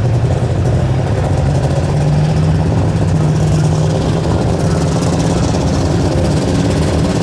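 Unlimited super stock pulling tractor's diesel engine running loud and steady, its pitch shifting only slightly.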